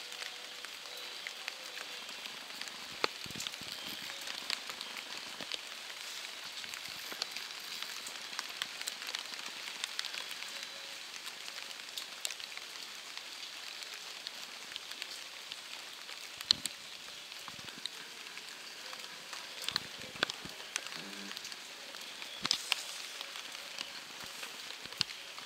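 Steady rain falling: an even hiss with many irregular drops ticking close by.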